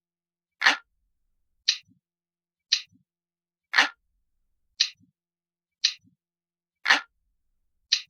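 Recorded analog clock ticking in a steady loop, one sharp tick about every second, eight in all, each with a faint low knock just after it. Every third tick sounds fuller than the two between.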